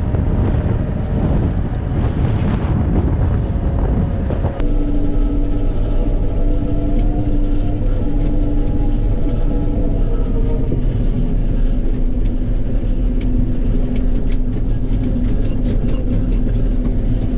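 Heavy diesel machinery working track ballast on a farm road: a dense rumbling, gritty noise for the first four and a half seconds, then a diesel engine running steadily, with light clicks and knocks near the end.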